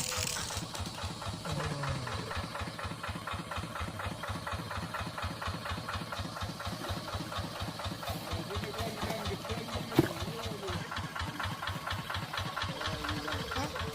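Tractor engine running steadily with an even firing rhythm. A single sharp knock about ten seconds in.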